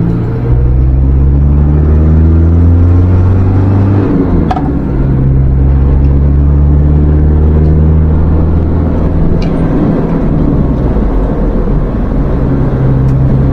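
Vehicle engine accelerating away through the gears: the engine note climbs, drops at a gear change about four seconds in, climbs again and drops near eight seconds, then settles to a steady cruise.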